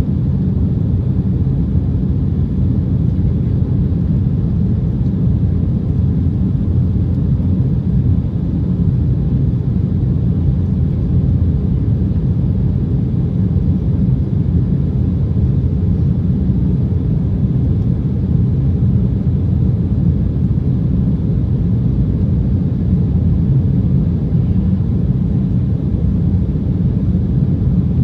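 Steady, low cabin rumble of an Embraer ERJ-190 under power, from its General Electric CF34 turbofans and the airflow over the fuselage.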